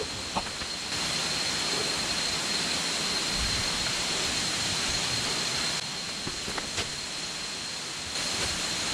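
Steady hiss of rushing water, swelling louder for a few seconds in the middle, with a thin steady high-pitched whine over it and a few faint ticks.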